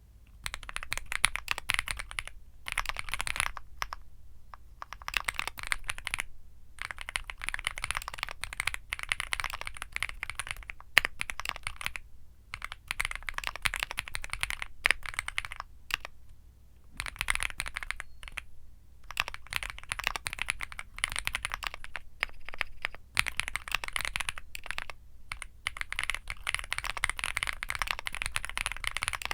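Womier SK75 mechanical keyboard with Womier Mint Blizzard switches being typed on: fast runs of keystrokes broken by short pauses.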